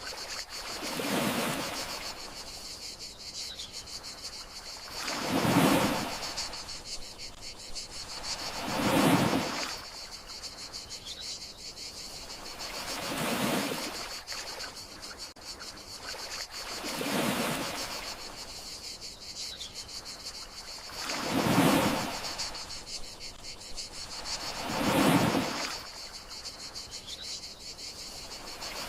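Gentle sea waves washing in and receding, one swell about every four seconds, over a steady high chirring of crickets.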